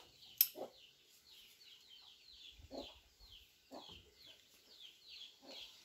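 Birds calling in the background: a regular series of short, high, falling chirps, about three a second, with a few fainter lower calls, and a single sharp click about half a second in.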